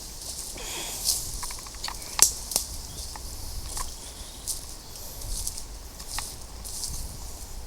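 Footsteps through woodland undergrowth, with irregular crackles and rustles of vegetation underfoot and brushing past.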